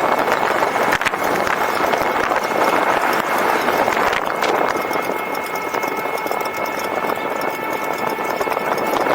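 Steady rushing of wind and tyre noise on a moving e-bike. From about four seconds in, a steady whine of several tones runs under it.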